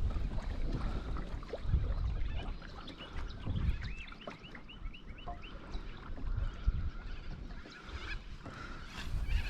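Uneven low rumbling gusts of wind buffeting the microphone on a kayak on the water. Partway through, a bird gives a quick run of short, repeated, arching calls, about three a second.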